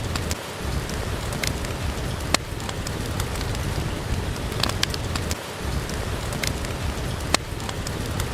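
Steady rain with a low rumble under it, and a wood fire crackling: scattered sharp pops, two loud ones about two and a half seconds in and near the end.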